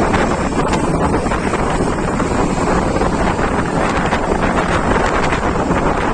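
Loud, steady wind noise buffeting the microphone while travelling along a road.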